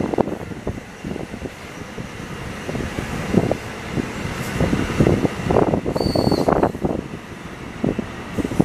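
Bi-level commuter rail coaches rolling past as the train slows into the station: an irregular low rumble of wheels on rail, with a brief high squeal about six seconds in.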